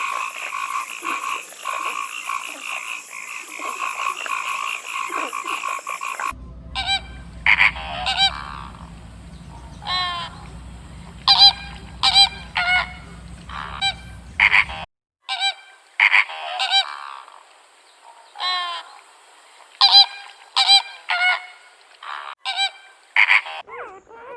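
A steady, fast-pulsing high-pitched chorus, then a cut to a bird's loud, short, pitched calls repeated irregularly, with another cut midway to more of the same calls.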